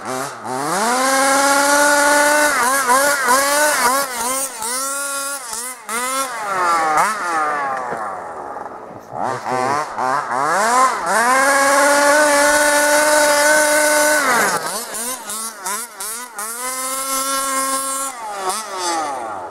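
Zenoah 26cc single-cylinder two-stroke engine of a large-scale RC car, through a DDM Dominator expansion pipe, revving hard: it climbs and holds at full throttle for about three seconds, blips up and down, falls, then holds at full throttle again for about four seconds before more quick blips near the end.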